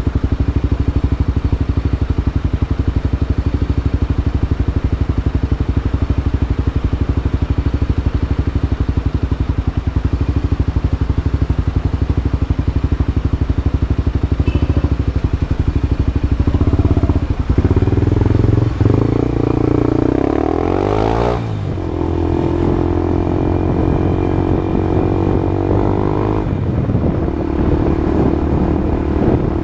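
Honda CB Twister motorcycle engine through a new aftermarket exhaust, running steadily at low revs, then from a little past halfway the revs climb and the pitch rises and falls a couple of times before holding higher and steady.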